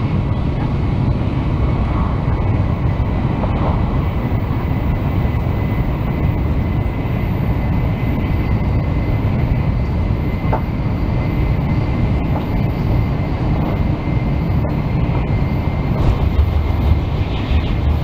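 Shinkansen bullet train heard from inside the passenger cabin while accelerating up to speed: a steady rumbling running noise with a thin steady whine above it, growing a little louder near the end.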